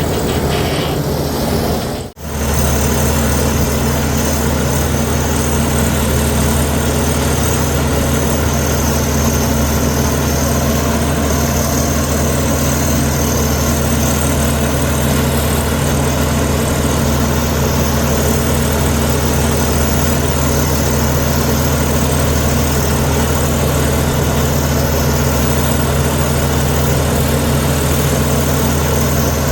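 Heavy diesel engine of earthmoving machinery running steadily with a deep, even hum. The sound drops out for an instant about two seconds in.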